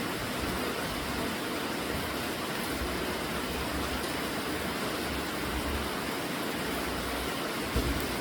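Steady rainfall, a continuous even hiss.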